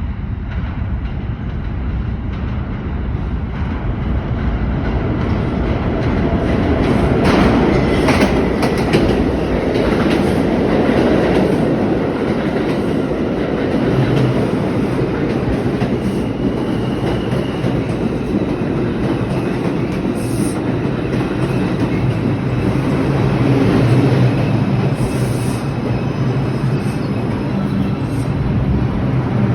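New York City subway 2 local train pulling into the station: a clattering rumble of wheels on the rails that builds over the first several seconds, then settles into a steady low hum from about halfway through.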